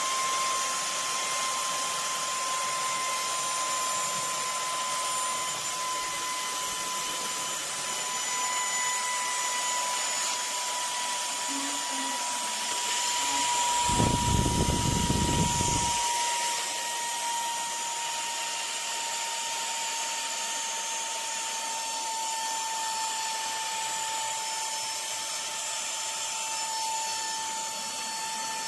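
Cecotec Scoba 2100 Twice cordless stick vacuum with a brushless digital motor, running with a steady high whine that sinks slightly in pitch over a constant hiss. About halfway through, a louder, deeper rush lasts around two seconds.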